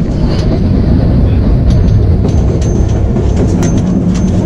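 Kalka–Shimla narrow-gauge toy train running, heard from inside the passenger coach: a loud rumble of wheels and carriage with scattered clicks and rattles, and a thin high squeal coming and going in the second half.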